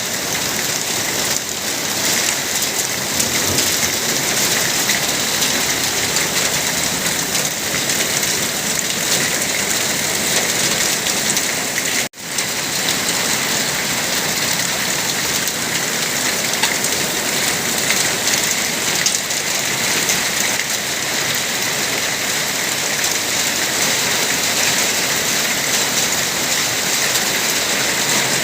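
Heavy rain falling steadily on surfaces, a dense even hiss. The sound drops out for an instant about twelve seconds in, then resumes unchanged.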